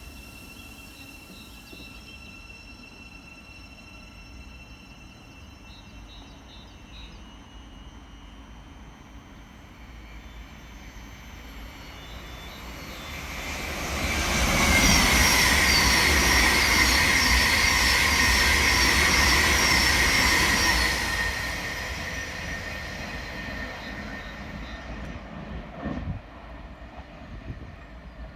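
A train passing through: it builds over several seconds, stays loud for about seven seconds with a steady high whine, then fades away.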